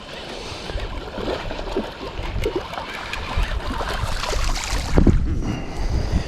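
Wind buffeting the microphone over splashing, lapping water while a hooked bass is fought beside a boat; the rumble grows louder about five seconds in.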